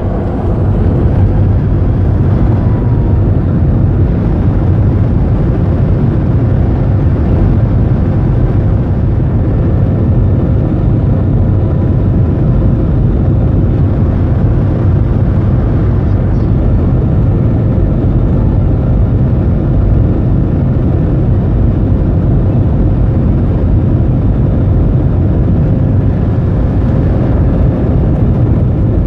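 Boeing 737's jet engines at takeoff thrust: loud steady noise, heaviest in the bass, with a faint steady whine above it.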